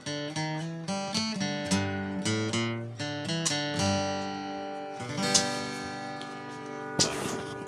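Acoustic guitar fingerpicked, with quick single notes over an alternating bass line. About five seconds in, a chord is struck and left ringing, and a few sharp knocks or string noises follow near the end.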